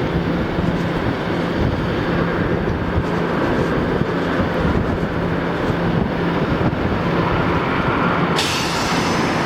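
Steady running rumble of a moving vehicle, with a low hum that fades in and out; a high hiss comes in near the end.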